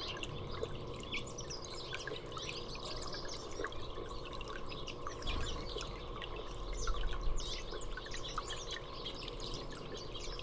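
Small songbirds chirping and calling, many short high chirps overlapping throughout, with a low rumble for a couple of seconds midway.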